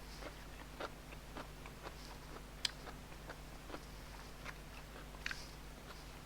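A person chewing food close to the microphone: soft, irregular mouth clicks and smacks, with a sharper click about two and a half seconds in and another little cluster around five seconds, over a faint steady low hum.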